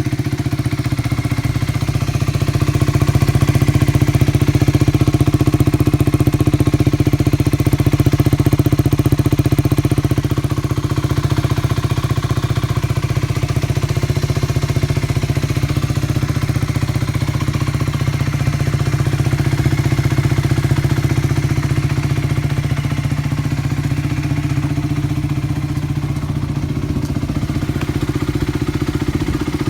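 Aprilia RS4 motorcycle with an aftermarket Scorpion exhaust idling steadily, a little louder for several seconds about three seconds in before settling back.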